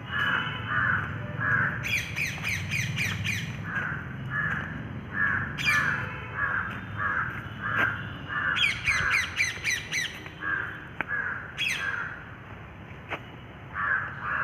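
Birds calling: a steady run of repeated calls, about two a second, with four bursts of shrill, rapidly repeated screeches breaking in over it.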